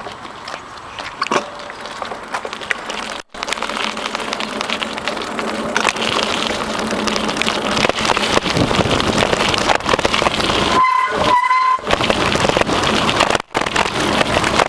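Wind and rolling rattle on a camera carried on a moving bicycle, with two short beeps about 11 seconds in. The sound cuts out briefly twice.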